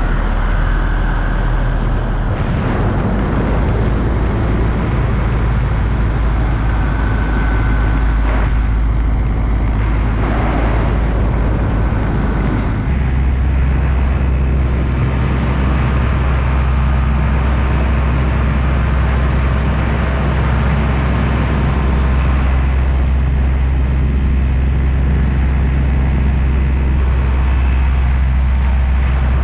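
Paramotor engine and propeller running steadily, with the engine note stepping up to a higher, stronger pitch about halfway through as the throttle is opened.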